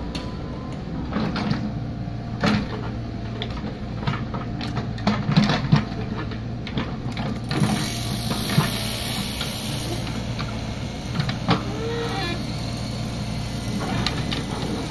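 Excavator's diesel engine running steadily, with scattered knocks and clanks from the working machine, a cluster of them about five to six seconds in.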